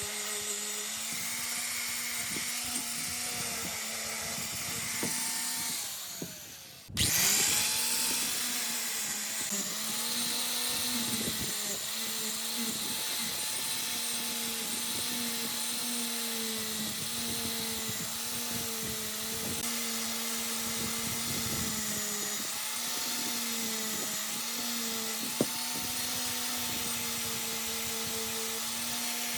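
Small electric power tool motor running steadily, its pitch dipping and recovering repeatedly as it is loaded against the work. About six seconds in it slows and fades, then after an abrupt break it runs again, with a single sharp click near the end.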